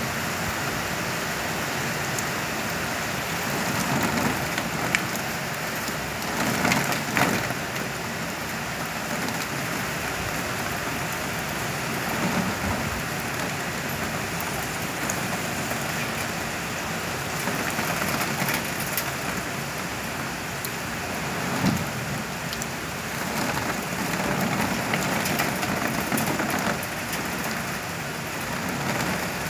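Heavy rain pouring onto a wet street, driven by wind that swells it louder in several surges, the strongest about seven seconds in.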